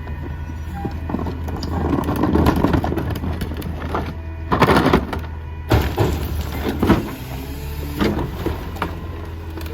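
Diesel engine of a Mack MRU rear-loader garbage truck running steadily, with a swell of mechanical noise, a loud burst of hiss about four and a half seconds in, then several clanks.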